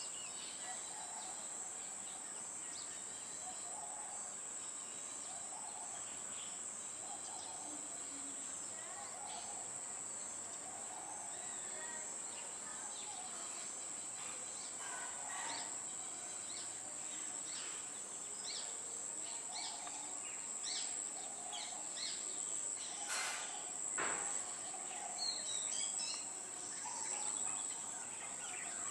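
Crickets or other insects drone steadily on one high pitch, with outdoor birds calling over them: a low note repeated about once a second, then a quick run of short, sharp high notes later on. A single sharp knock sounds near the end.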